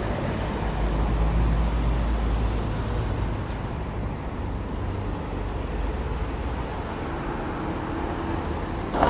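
Road traffic: vehicles running past in a steady rumble of engine and tyre noise, growing louder right at the end.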